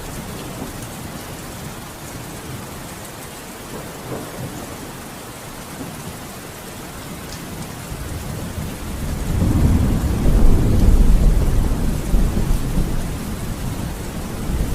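Steady rain falling, with a roll of thunder that builds about eight seconds in, rumbles loudest a couple of seconds later and slowly dies away.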